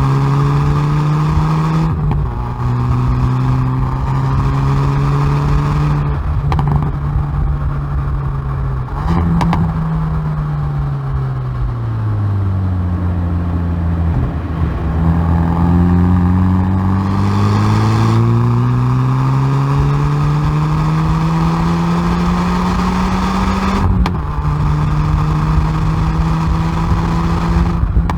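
Hyundai i30N Performance's turbocharged 2.0-litre four-cylinder engine and exhaust under hard acceleration on track, heard from the rear bumper. The engine pitch drops sharply at gear changes about two seconds in and again near the end. In between it falls away through a long slowdown and then climbs steadily back up.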